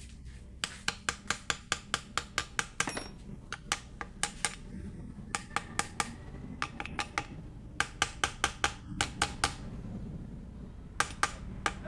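Runs of sharp metallic clicks, about six a second, with short pauses between the runs: hand tools working on metal engine parts during motorcycle engine assembly. A steady low hum runs underneath.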